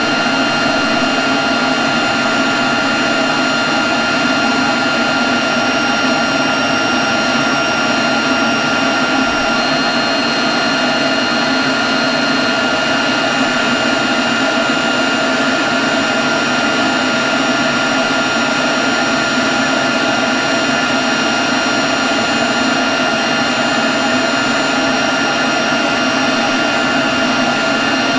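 Leaf blower running continuously at a constant speed: a steady rush of air with a steady high whine over it, holding the same level throughout.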